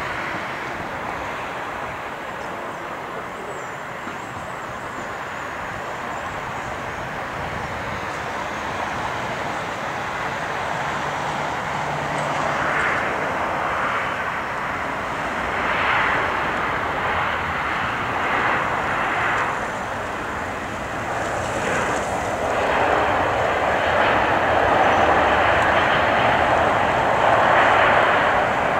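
Jet airliner engines: a steady rushing noise that swells and grows louder toward the end.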